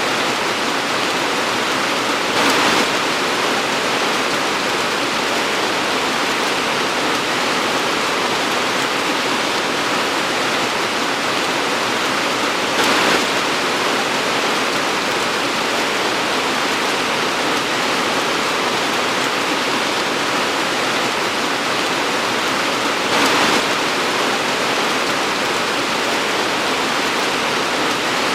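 Torrential rain pouring down in a dense, steady hiss. It swells briefly louder three times, about ten seconds apart.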